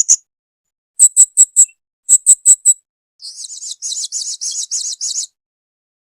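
Blue-crowned hanging parrot (serindit) calling: short, very high-pitched chips in quick groups of three or four, then a faster, rougher chattering run of notes for about two seconds that stops about a second before the end.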